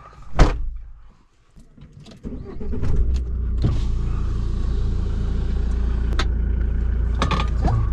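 A thud, then about two seconds in a motorhome's engine starts and settles into a steady running hum, with small clicks and knocks over it.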